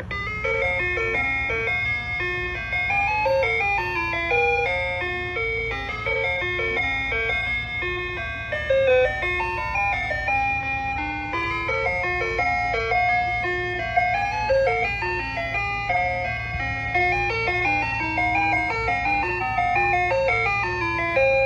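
Soft-serve ice cream truck's electronic chime jingle playing a tinkling tune note by note, over a steady low hum.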